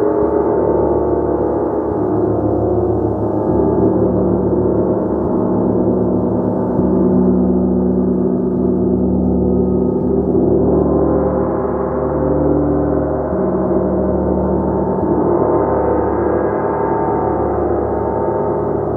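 Gong being played continuously in a sustained wash, many overlapping ringing tones layered together, swelling and easing slowly without a break.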